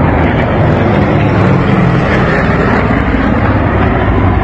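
Loud, steady noise of aircraft engines at an airshow: a dense rumble with a low engine hum underneath.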